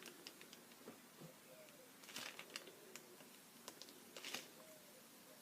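Faint scratchy strokes of a pen tip drawing on paper, in a quiet small room. The two clearest strokes come about two seconds and about four seconds in.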